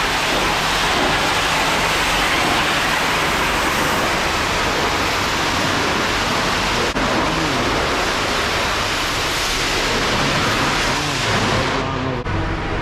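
Steady rushing hiss of truck-wash spray hitting the truck, cutting off suddenly near the end.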